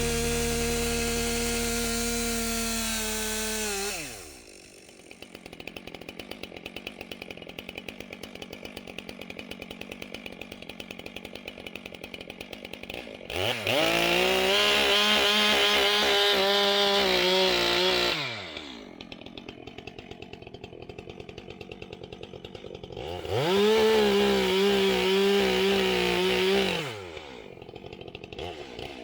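Two-stroke chainsaw running at full throttle, dropping to idle about four seconds in, then revving up for about five seconds at a time twice more with idling between: a saw making bucking and limbing cuts.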